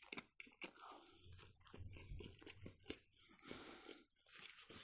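Faint chewing of soft Ossetian cheese pie, close up: a string of small mouth clicks and smacks.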